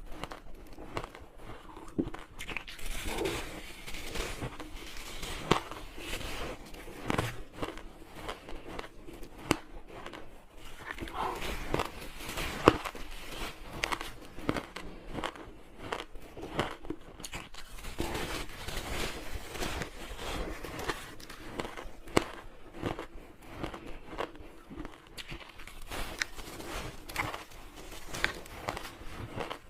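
Person biting into soft, chunky freezer-frost ice, a dense irregular run of crunches and crackles, several a second, with one sharper crunch about halfway through.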